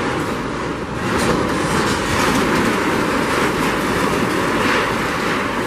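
A building being torn down by demolition machinery: continuous crunching and clattering of breaking, falling debris.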